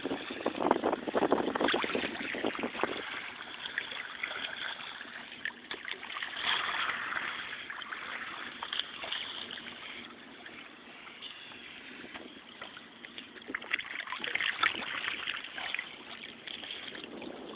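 Water splashing and sloshing around a kayak, coming in uneven bursts with short crackly splashes, as manatees swim close by in shallow water.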